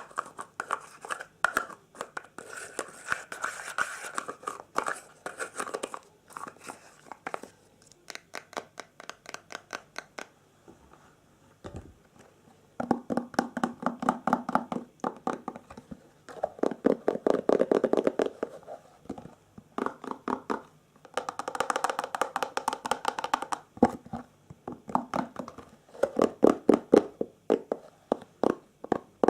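ASMR triggers close to the microphone: rapid fingernail tapping and scratching on objects, in bursts of a few seconds with short pauses, some of them with a hollow, resonant ring.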